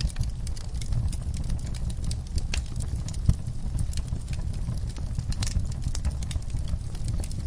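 Wood-burning fire crackling and popping over a low, steady rumble of the flames, with one louder pop about three seconds in.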